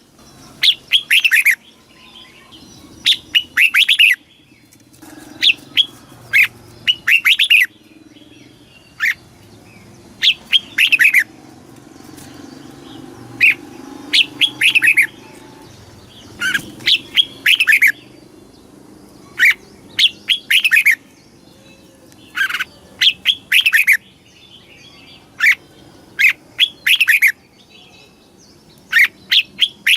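Red-whiskered bulbul singing: short phrases of quick notes that fall in pitch, repeated every second or two with brief pauses, over a faint low hum.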